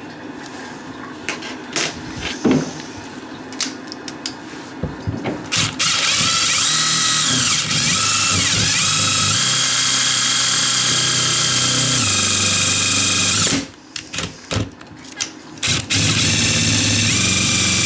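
A power drill running in two long steady runs, the first about seven seconds with its pitch shifting a couple of times, the second about two seconds near the end. A few scattered knocks and clicks come before it.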